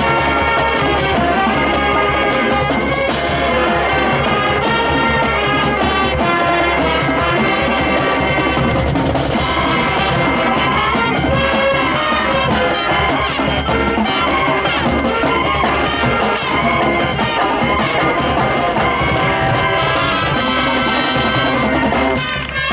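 High school marching band playing: a brass ensemble of trumpets and trombones over drums, with two crashes about three and nine seconds in.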